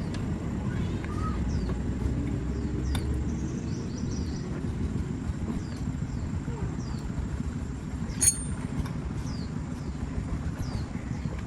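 Steady low rumble with repeated short, high, falling bird chirps, a click about three seconds in, and a single sharp metallic clink that rings briefly near the end.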